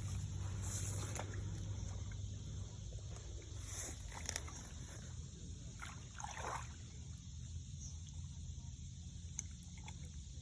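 Faint water sloshing and trickling around a big bass held in the water before its release, over a steady low hum.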